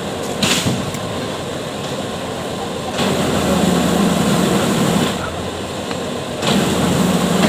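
Heavy truck engine running, getting louder twice: from about three seconds in for two seconds, and again near the end.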